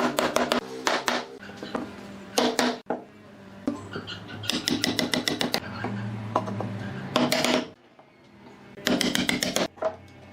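Woodworking tool work: several short runs of rapid, sharp knocks, each run under a second, over a low steady hum.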